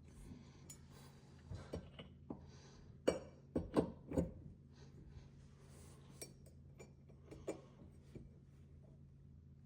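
Light clinks and knocks of metal tools and faucet parts being handled during a faucet repair, with a cluster of sharper knocks about three to four seconds in, over a steady low hum.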